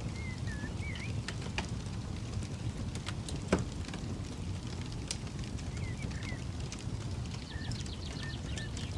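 Wood campfire crackling, with scattered sharp pops, one louder pop about halfway through, over a steady low rumble. A bird chirps briefly near the start and again in the second half.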